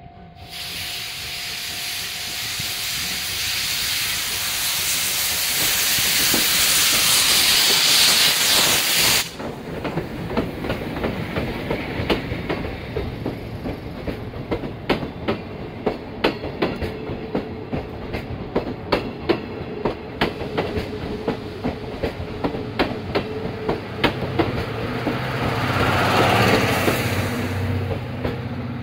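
A passenger train passing close by. A loud hiss builds for the first nine seconds and cuts off sharply. Then the coaches roll past with a run of wheel clicks over the rail joints, and another swell of hiss comes near the end as the last car goes by.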